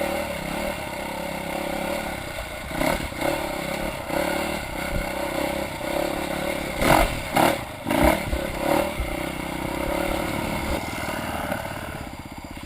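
Dirt bike engine running on and off the throttle over rough rocky ground, with clattering knocks from the bike over rocks, the loudest about seven to eight seconds in. Near the end the engine drops to a steady idle.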